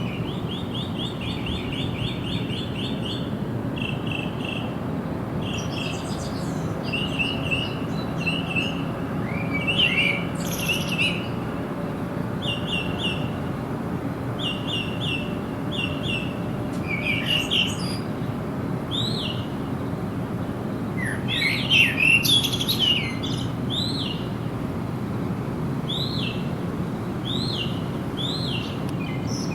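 Songbirds chirping in quick runs of short, repeated high notes, with a louder flurry of calls a little past two-thirds of the way through, over a steady low background noise.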